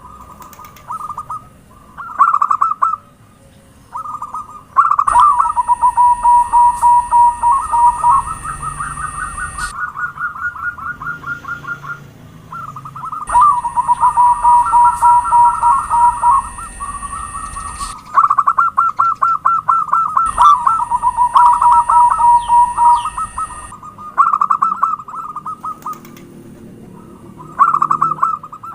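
Zebra doves (perkutut) cooing: repeated runs of quick staccato notes around one pitch, coming in bouts that overlap into dense trills in the middle. A faint steady high tone and low hum come and go in three stretches.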